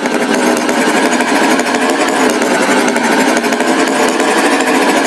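Cartoon tractor engine running with a steady, rapid rattle.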